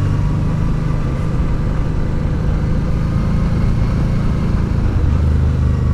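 Honda Deauville's V-twin engine running steadily as the motorcycle rides along, with wind and road noise; the engine note drops slightly about five seconds in.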